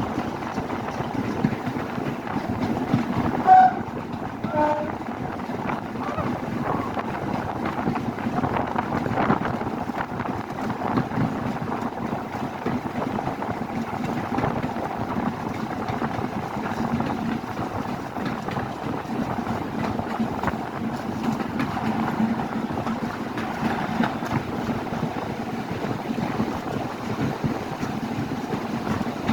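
A heritage railway train running with a steady rumble. Two short high tones about a second apart come near the start.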